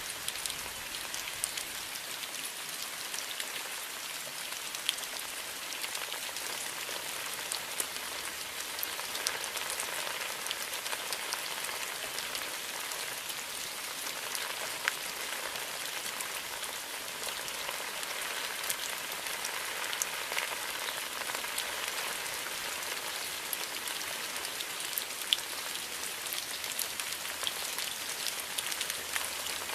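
Steady rain falling in a bamboo grove: a constant hiss with scattered sharper drips and drop strikes.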